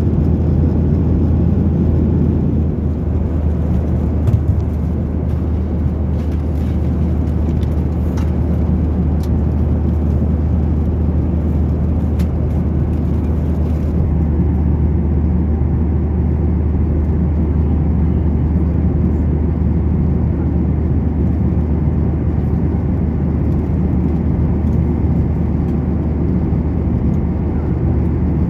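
Steady roar of a Boeing 737-900ER's CFM56-7B jet engines and rushing air, heard inside the economy cabin, with a couple of faint clicks about four and five seconds in.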